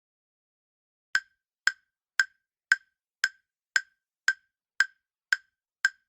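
Countdown timer sound effect: ten short, identical clock-like ticks, evenly spaced about two a second, starting about a second in.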